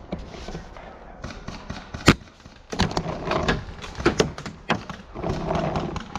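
A scatter of sharp knocks and cracks, the loudest about two seconds in and several more close together about four seconds in, with stretches of rustling between.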